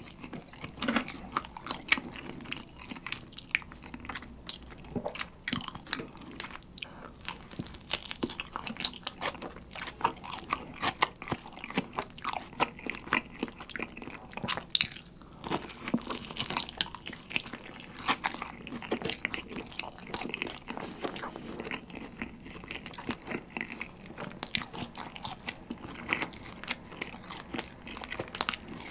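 Close-miked chewing and biting of pizza: a continual, irregular run of small crunches from the crust, with mouth clicks.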